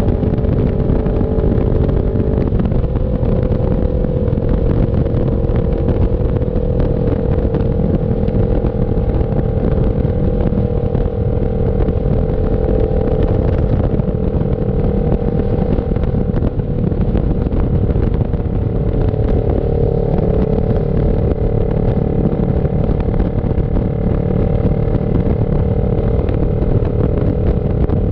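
CF Moto NK400 parallel-twin engine running at a steady cruise, with wind rushing over the microphone. The engine note drops slightly about two and a half seconds in, then holds steady.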